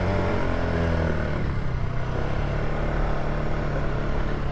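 Polaris ATV engine running at low trail speed, its pitch easing down over the first couple of seconds and then holding steady.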